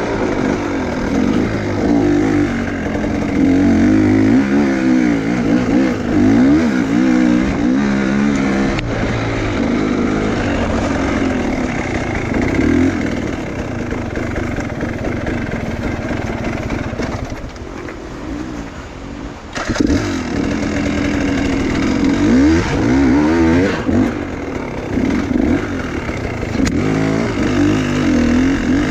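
Enduro motorcycle engine revving up and down unevenly under hard throttle, as on a rough off-road climb. It drops low for a couple of seconds about two-thirds of the way through, then comes back with a sudden burst of throttle.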